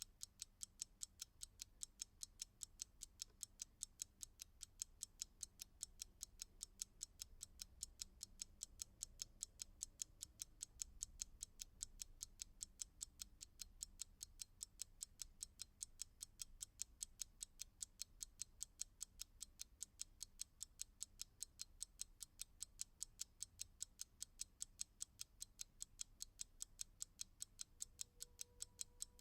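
Clock ticking steadily: a quick, even run of faint, sharp, high ticks.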